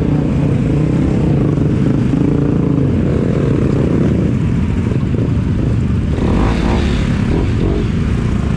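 Motorcycle engine running under way, its pitch rising and falling as the throttle changes, over a heavy low rumble.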